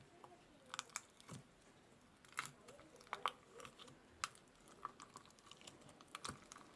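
A series of sharp, crisp crunches and clicks, about seven of them at irregular intervals, over a faint background.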